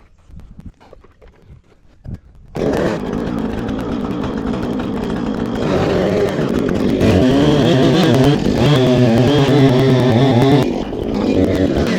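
An engine starts about two and a half seconds in and runs loudly, with its revs rising and wavering from about six seconds on and easing briefly near the end before picking up again.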